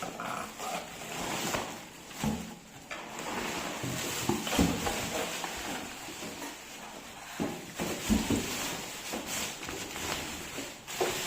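Packaging rustling and a few handling knocks as the vacuum cleaner's main body is unpacked from its box.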